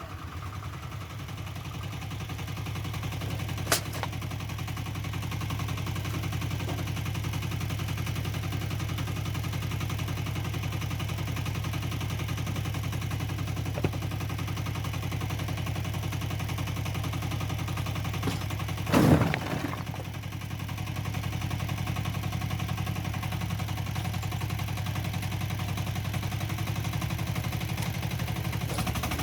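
Single-cylinder diesel engine of a walk-behind motocultor running steadily with a rapid, even firing beat. Two sharp knocks come at about 4 and 14 seconds, and a louder clatter just before the 20-second mark is followed by a brief drop in level.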